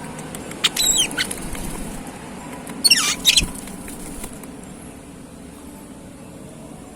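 Oriental magpie-robin giving two short bursts of high, sharp chirping notes, about a second in and again about three seconds in, the second sweeping downward.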